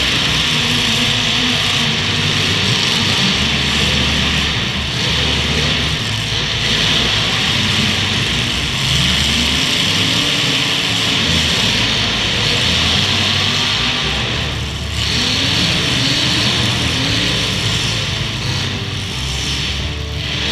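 Demolition derby cars' engines running hard and revving, with several rising and falling swells in pitch, over a dense steady roar.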